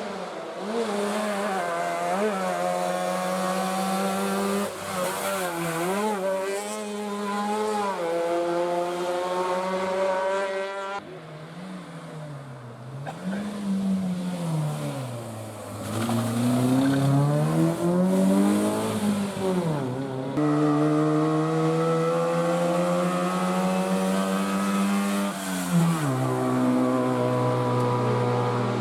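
Rally car engines revving hard, the pitch climbing through the gears, dropping on lifts and swinging up and down repeatedly in the middle. The sound changes abruptly twice, about a third and two-thirds of the way through.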